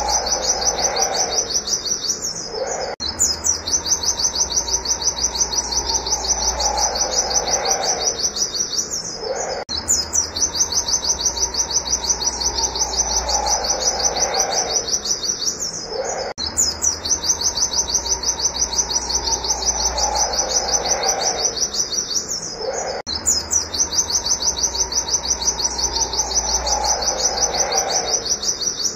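White-eye (pleci) singing an unbroken, rapid run of high, sharp 'wit wit' notes, several a second. A lower falling call recurs beneath it about every seven seconds.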